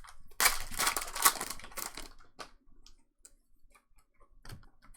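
Trading cards being handled: a dense rustling and sliding of cards and wrappers for about a second and a half, then a few light clicks and ticks.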